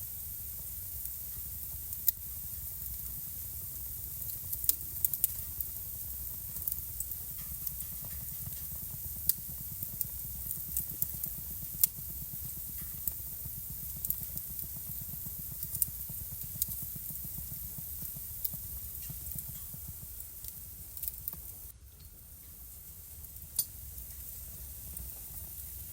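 Wood fire burning in a fireplace, crackling with irregular sharp pops over a steady hiss and a low rumble.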